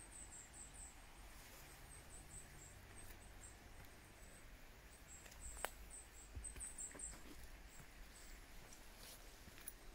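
Faint, very high-pitched bird calls: runs of short thin chirps over a low background rumble, with a single sharp click a little past halfway.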